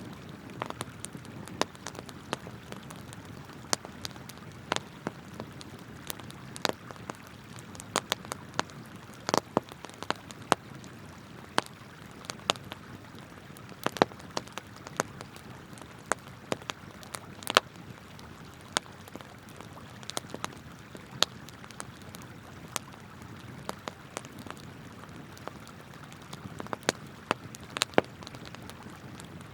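Wood campfire crackling, with sharp irregular pops, sometimes several close together, over the steady rush of a flowing river.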